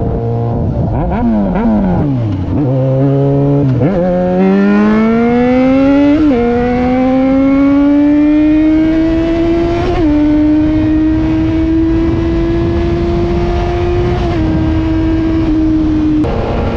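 Motorcycle engine revving up and down in quick blips, then pulling away and accelerating through the gears, its pitch climbing and dropping at each upshift, twice. It then settles into a steady cruise, under a constant rush of wind noise.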